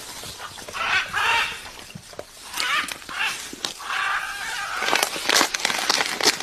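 Macaw giving a series of short, harsh calls, several cries spread across the few seconds, with a few sharp clicks near the end.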